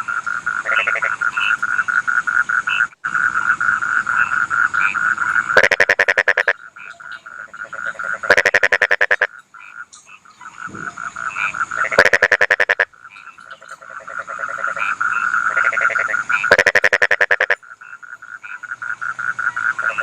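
Rice-field frogs calling: a continuous rapid pulsing trill from the chorus, with four loud pulsed croaks, each about a second long, a few seconds apart.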